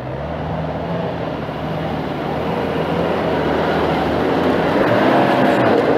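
Off-road vehicle's engine running hard under load, with a dense noisy rush over it, growing steadily louder.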